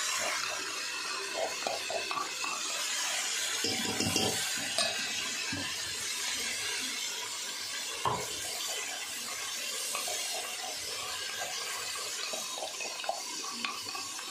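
Onions sizzling steadily in hot oil and water in an aluminium pot, with a steel ladle scraping and clinking against the pot as it stirs, and a sharper knock about four seconds in and again about eight seconds in.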